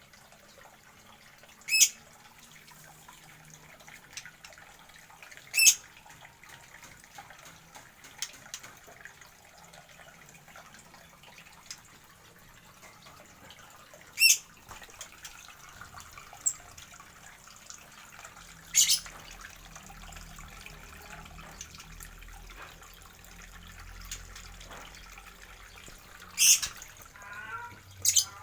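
Aviary birds giving short, sharp, high calls, about six at irregular intervals several seconds apart, over a faint steady background.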